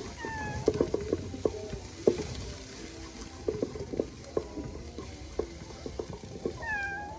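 Food being stirred as it fries in a cooking pot: a spoon knocks and scrapes irregularly against the pot over a steady sizzle. A short falling call sounds just after the start and again near the end.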